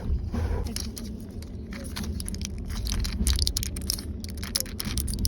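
Quick, irregular tapping and clicking of small objects being handled, over the steady low rumble of a moving train.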